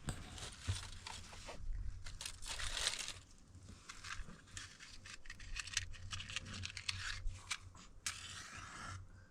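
Crinkly rustling and tearing of handled material, in repeated stretches with many short clicks.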